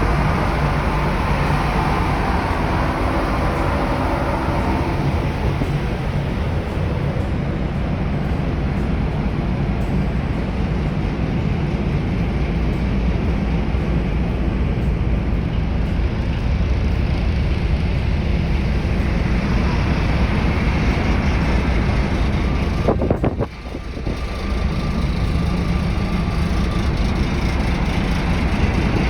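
Steady low rumble of a car ferry's engines under way. It drops out briefly about 23 seconds in, then picks up again.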